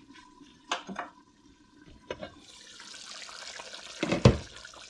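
Potatoes going into a pot of chicken curry frying without water: a few light clinks, then a steady sizzle that builds from about halfway, with one loud knock of utensil on pot near the end.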